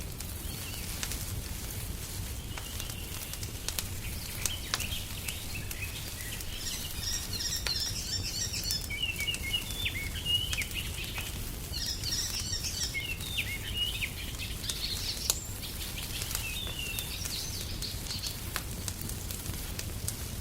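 A wood fire crackling with scattered sharp pops over a low steady rumble. Songbirds sing in three spells of quick high chirping, the first about a third of the way in, the last near the end.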